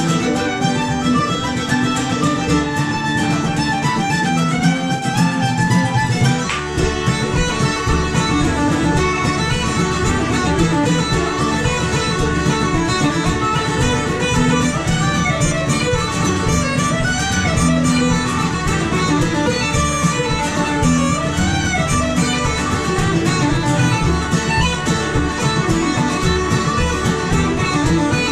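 Lively Celtic tune played by a small string band: fiddle, guitar and mandolin together. A fuller low accompaniment comes in about six seconds in.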